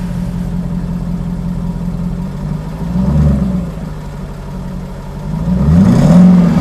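A car engine running, revved briefly about three seconds in and again, louder, near the end, the pitch rising and then falling each time.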